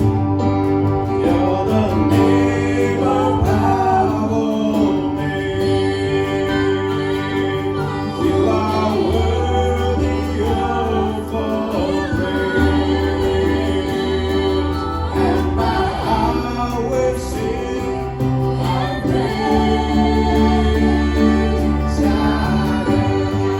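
Worship song: singing voices over held chords, with a bass line that changes note every few seconds.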